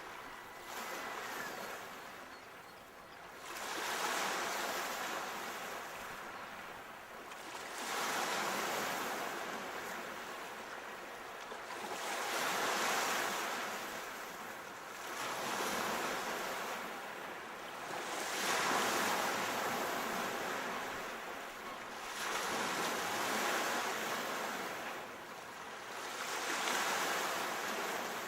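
Sea waves breaking on the shore: a wash of surf swells and fades about every four seconds, seven times in all.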